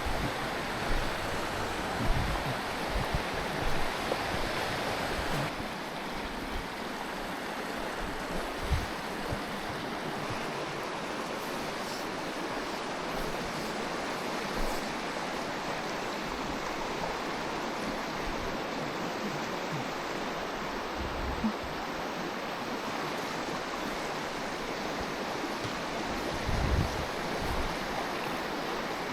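Mountain stream water rushing steadily over rocks, with occasional low wind thumps on the microphone.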